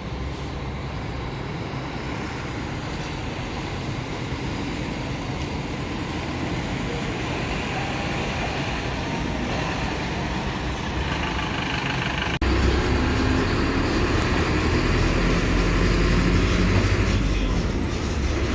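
Diesel engine of a Mercedes-Benz OF-1721 bus chassis (Caio Apache Vip II body) running with a steady low drone that grows slowly louder. About twelve seconds in it cuts off for an instant and comes back clearly louder and deeper.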